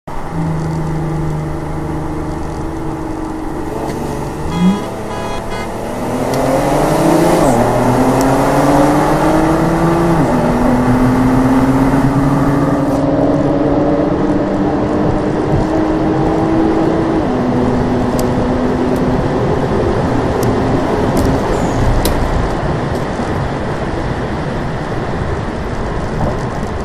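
Inside the cabin of a tuned 2016 Infiniti Q50 Sport at full throttle in a roll race: its 3.0-litre twin-turbo V6 runs steadily at first, then gets louder about six seconds in and climbs in pitch through the gears. Pitch drops at upshifts about seven and ten seconds in, and the driver lifts off about seventeen seconds in.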